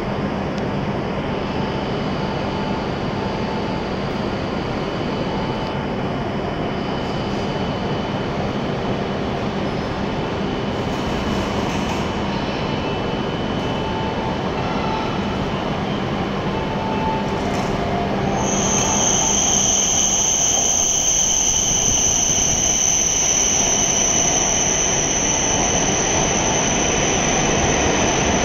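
Steady station platform hum, then an E7 series Shinkansen train pulling in to stop. About two-thirds of the way through, a steady high-pitched squeal sets in and holds as the cars glide past.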